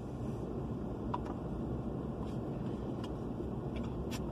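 Truck engine idling: a steady low rumble, with a few faint clicks over it.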